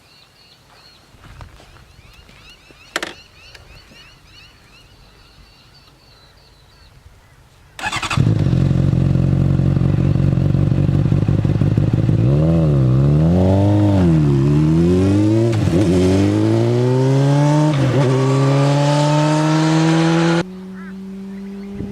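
2009 Honda CBR600RR's inline-four engine through a Dominator slip-on exhaust, coming in loud and sudden about eight seconds in and idling. It is blipped a few times, rising and falling, then revved in a steady climb. Near the end it drops suddenly in level while holding a higher pitch.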